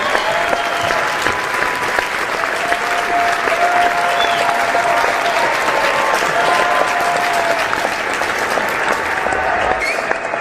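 Large audience applauding steadily and densely, with drawn-out cheering shouts held over the clapping.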